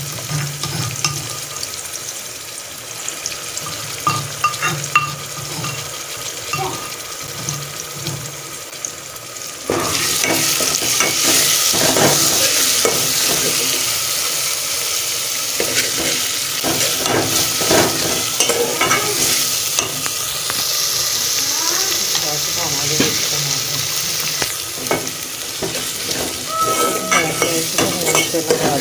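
Onion, garlic and green chillies frying in oil in an aluminium pot, sizzling, with a spoon stirring and scraping against the pot. The sizzle jumps suddenly louder about ten seconds in and stays loud.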